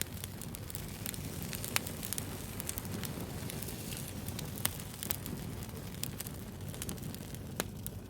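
Wood fire crackling, with a steady low rumble and scattered sharp pops; the loudest pops come about two seconds in, near the middle and near the end.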